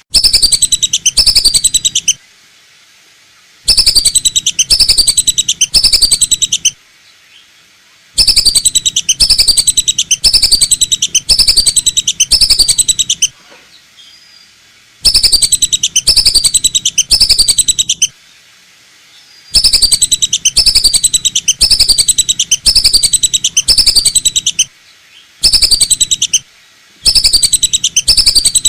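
Whistling duck (belibis batu) lure call: bouts of rapid, high, descending whistled notes, each bout lasting a few seconds, repeated over and over with short pauses between them.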